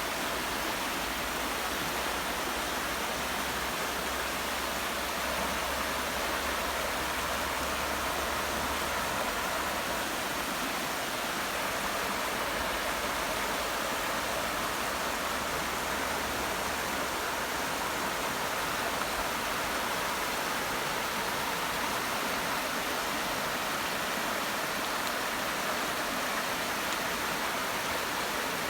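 Class II river rapids: water rushing steadily over the rocks, an even, unbroken rush.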